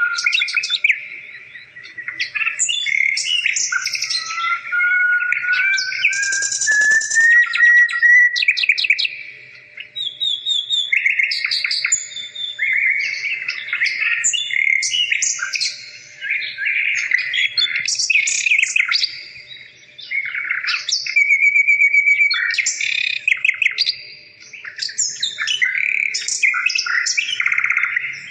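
A songbird singing at length: varied trills, chirps and rising whistles in long phrases, with short pauses every few seconds.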